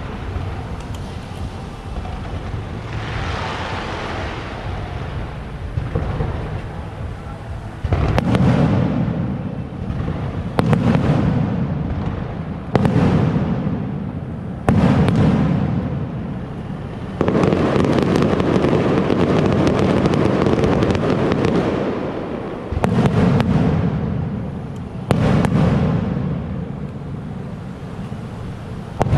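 Aerial firework shells bursting high overhead: a series of sharp booms, each fading away in a rolling echo, coming every two seconds or so from about a third of the way in. Midway the booms run together into a longer rumble, with quieter crackling before the booms start.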